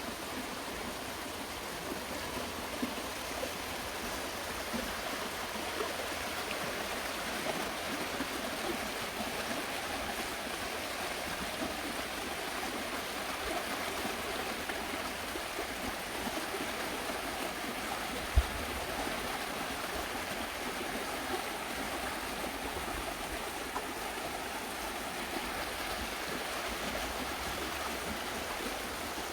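River water rushing steadily over rapids. One brief low thump comes about 18 seconds in.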